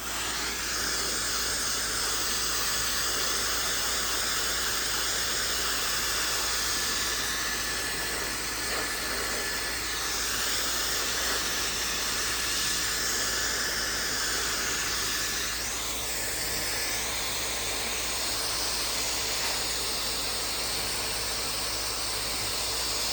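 Maxodo 1400-watt high-speed hair dryer switched on and blowing steadily: a strong rushing hiss of air with a high motor whine.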